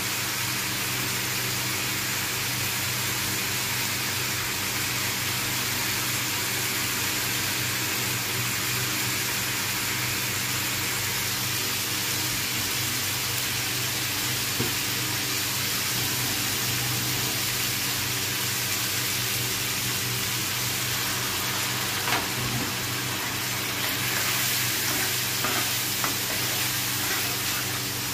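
Chicken pieces frying in a pan, a steady sizzle, with a few clicks and scrapes of a spatula near the end.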